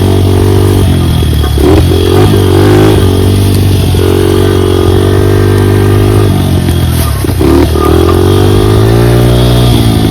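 Dirt bike engine running as it is ridden, the revs holding steady, then dropping and picking up twice, and climbing again near the end.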